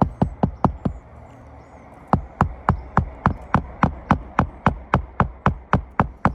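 Hammer blows at about four a second during a roof shingle repair, stopping for about a second early on and then resuming at the same steady pace.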